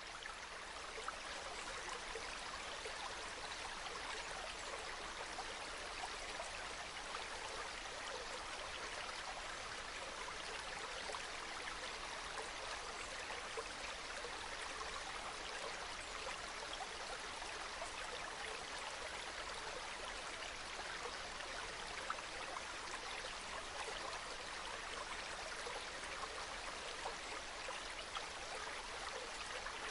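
Small mountain stream burbling and trickling steadily over rocks, a soft continuous water sound.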